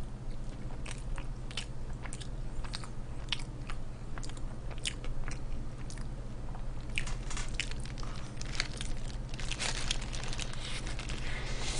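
A person chewing and biting food, with many small crisp crunches and clicks, growing busier in the second half, over a steady low hum.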